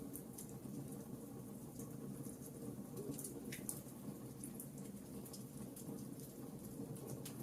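Wood fire burning in a fireplace: a steady low rumble of flames with frequent small crackles and a few sharper pops of the burning logs.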